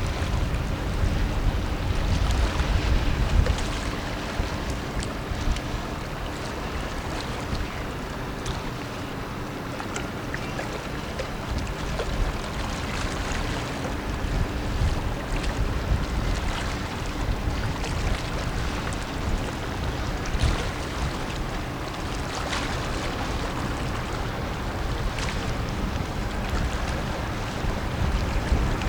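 Wind buffeting the microphone, strongest in the first few seconds and again near the end, over a steady low drone from the tugboat Ecosse's engines as it passes with its barge.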